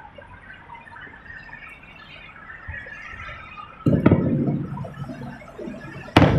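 Fireworks exploding: a loud bang about four seconds in, followed by a low rumble that slowly fades, then a second, sharper bang near the end with more rumbling.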